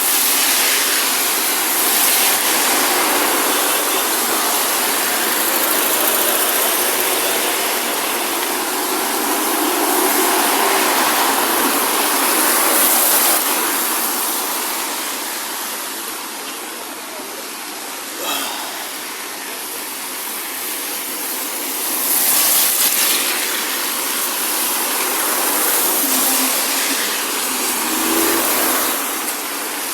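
Steady hiss of heavy rain with traffic on the wet road, swelling and fading several times as vehicles pass.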